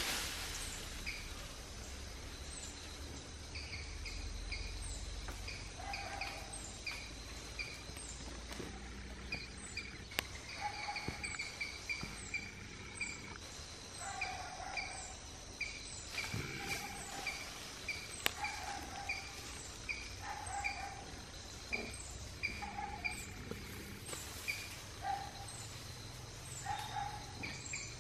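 Forest birdsong: short high chirps repeated over and over, about one or two a second, with lower short notes mixed in over a steady background hiss. Two sharp clicks stand out, about ten and eighteen seconds in.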